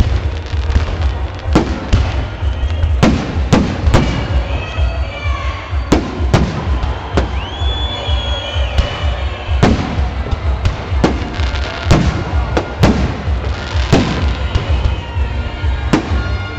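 Fireworks display: a run of sharp shell bursts about once a second, with a short whistling tone about halfway through, over a steady low rumble.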